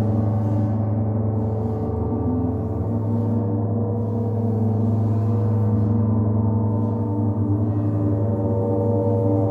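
A large gong played softly and continuously, its deep hum and dense overtones sustained and swelling, with a shimmering upper wash that comes and goes every second or two.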